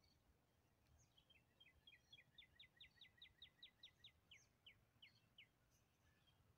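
Faint songbird song: a run of about fifteen quick whistled notes, each sliding down in pitch. The notes speed up and grow louder toward the middle, then slow near the end. Other birds chirp faintly now and then.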